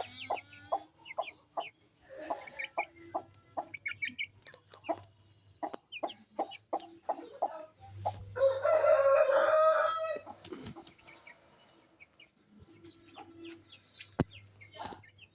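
Chickens clucking in short, scattered calls, with a rooster crowing once, loudly, about eight seconds in, for about two seconds.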